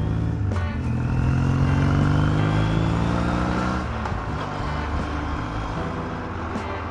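Vintage scrambler motorcycle engine accelerating hard, its pitch rising for about four seconds, then dropping as the throttle closes.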